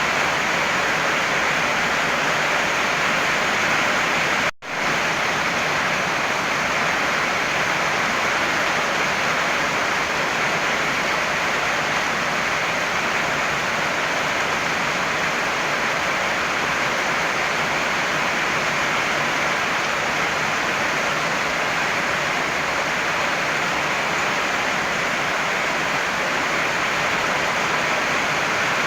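Heavy rain pouring down, a steady dense hiss with no distinct drops or thunder. The sound cuts out for a split second about four and a half seconds in and comes straight back.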